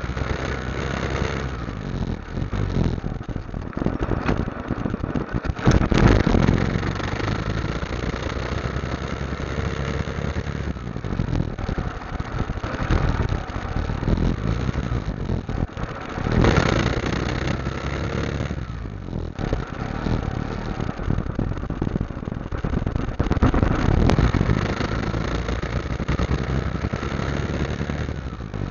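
Motorcycle engine running on the move under a steady rushing noise, swelling louder three times: about six seconds in, past the middle, and near the end.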